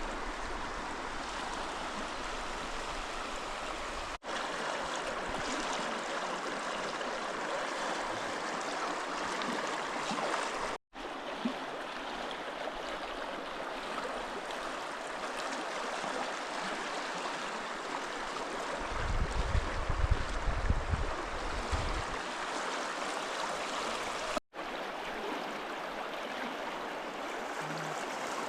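Steady rushing of flowing stream water, broken by three brief dropouts. A louder low rumble from about 19 to 22 seconds in.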